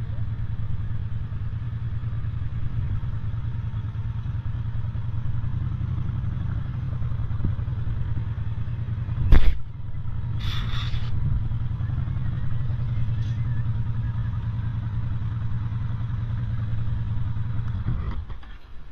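Motorcycle running at a steady pace while being ridden, a low even drone. A single sharp knock cuts through about nine and a half seconds in, and a short hiss follows about a second later.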